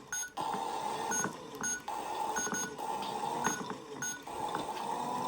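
Asda toy washing machine's small motor whirring in stop-start runs of one to two seconds, with short beeps several times as the spin glitch is set off.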